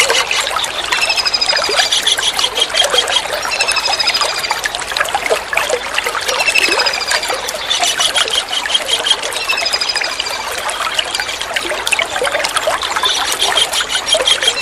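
Kingfisher calls, a short high falling note with a buzzy trill, repeated every two to three seconds, over a steady trickle of running water.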